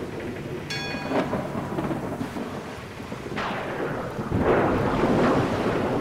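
Thunderstorm: steady rain with thunder rumbling, swelling louder from about three and a half seconds in. A brief high ringing tone sounds about a second in.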